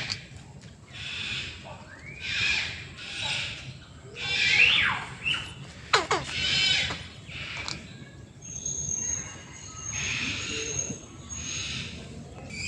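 Several birds calling in an aviary: harsh squawks repeating roughly once a second, mixed with short rising whistled calls and a long, high, steady whistle in the second half.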